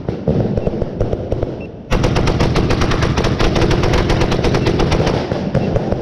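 Firework barrage firing a rapid string of sharp cracking shots, many a second. The shots thin out briefly at first, then come thick and fast again about two seconds in.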